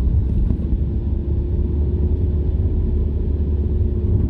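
Car driving along, heard from inside the cabin: a steady low rumble of engine and road noise with a faint steady hum.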